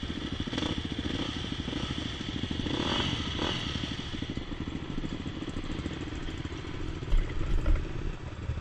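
Dirt bike engine running with a fast steady pulse, with a few loud low thumps near the end.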